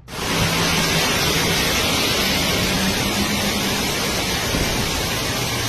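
Steady, loud rushing of flash-flood water, a dense hiss that begins abruptly.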